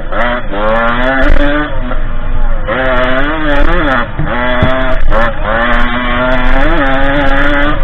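Derbi 50cc two-stroke engine on a dirt bike being ridden under throttle: the revs climb in pitch again and again, with short drops where the throttle is shut, about half a second, two and a half, four and five seconds in.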